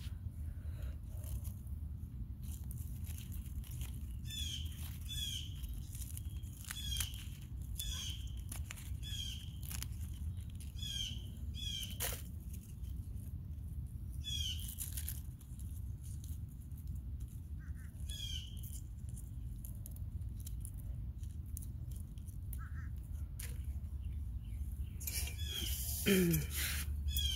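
Small birds chirping outdoors, short quick notes repeated about once a second in runs, over a steady low background rumble. A louder noisy burst comes near the end.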